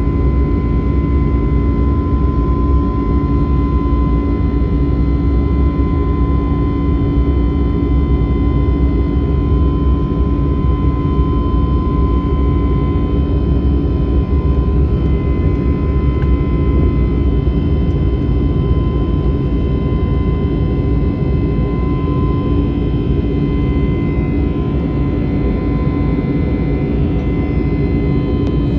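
Airbus A321neoLR jet engines and airflow heard from inside the passenger cabin during the climb: a steady, loud noise with a constant hum and a thin whine held on one pitch.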